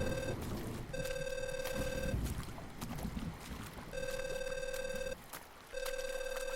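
Phone ringback tone of an outgoing call: beeps in pairs, each about a second long with a short gap, over rain and wind noise that fades about halfway through.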